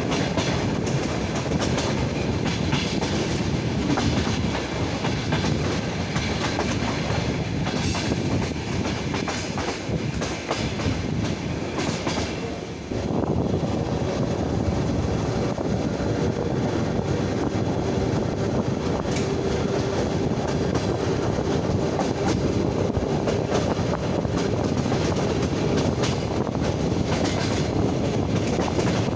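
Electric commuter train running at speed, heard from an open carriage window: wheels rolling on the rails with a clickety-clack and rushing air. The noise dips briefly about halfway through and then comes back louder.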